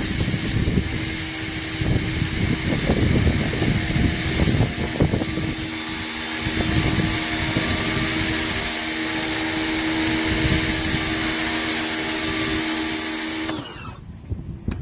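Sun Joe SPX1000 electric pressure washer running and spraying: a steady motor hum under the hiss of the water jet. It stops abruptly about a second before the end.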